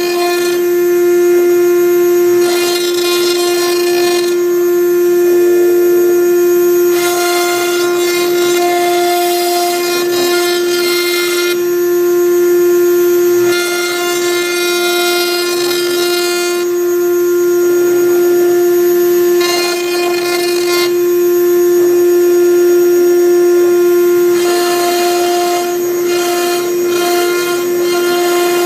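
CNC router spindle running with a steady high whine while a V-bit engraves MDF, the cutting and motor noise changing in character every few seconds as the bit moves along the letters.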